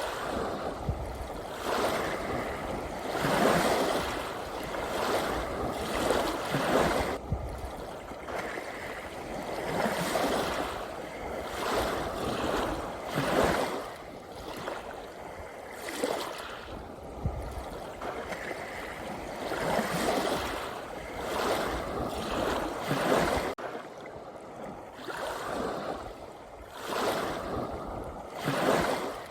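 Ocean waves washing in, a hiss of water that swells and ebbs every two to three seconds.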